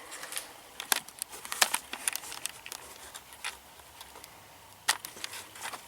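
Scattered light clicks and faint rustling of parts being handled, a handful of sharp ticks about a second apart.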